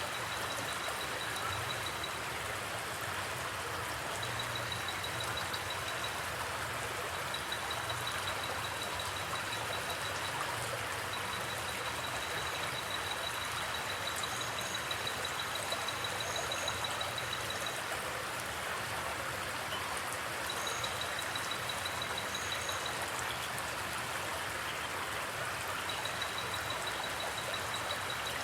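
Creek water flowing steadily over rocks, an even rushing sound. A thin, high, fast-pulsed trill sounds over it in runs of one to three seconds, repeating several times.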